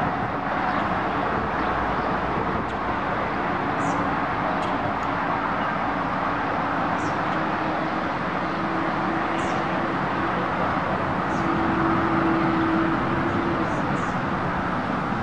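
Steady outdoor background noise with a motor's hum, which holds from about three seconds in until near the end.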